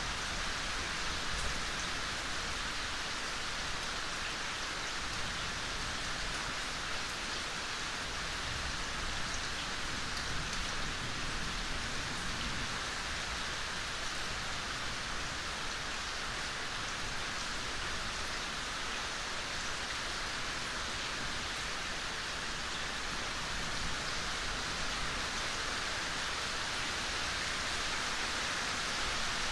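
Steady soft rain falling in a forest, an even hiss of many drops with faint individual drop ticks on leaves and ground.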